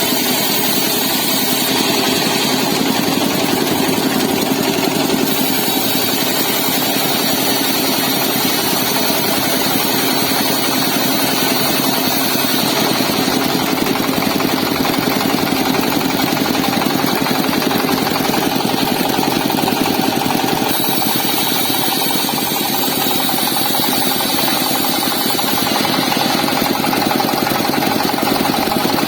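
Car engine driving a wood-cutting saw, running steadily at a constant speed.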